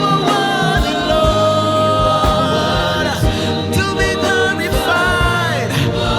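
Gospel worship music: voices singing a wordless or unclear melody with held and gliding notes over a steady drum beat.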